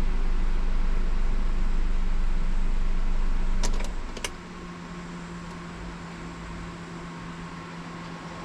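Nissan Serena running at idle, a steady low hum. A few sharp clicks come about four seconds in, after which the sound drops markedly in level and settles a little lower in pitch.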